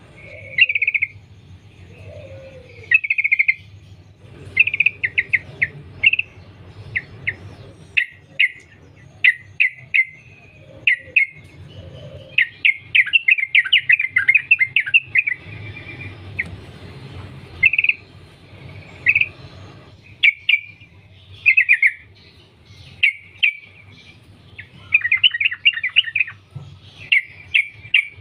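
Yellow-vented bulbul singing: repeated short phrases of quick, bubbly chirps and trills every second or two, some running on in longer strings.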